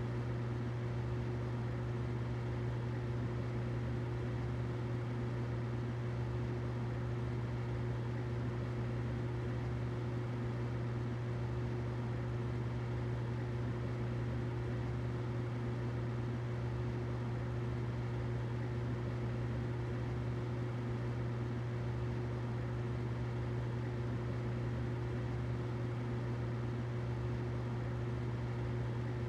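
Humidifier running: a steady low hum with a fainter higher tone above it and a soft even hiss, unchanging throughout.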